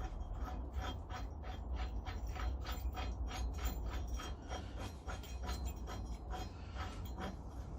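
A bolt being fastened with hand tools into a tapped aluminium bar: a steady run of small metallic clicks, several a second.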